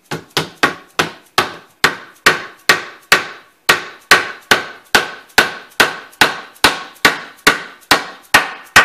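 Rubber mallet striking a wooden piece of a wall rail to drive it into place: about twenty-two evenly spaced blows, a little over two a second, each with a short ring.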